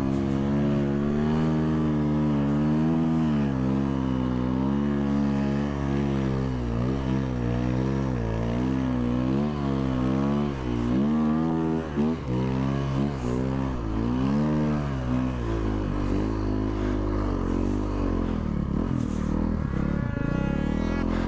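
Snowmobile engine revving up and down again and again while riding, its pitch rising and falling about once a second. The revs ease off near the end.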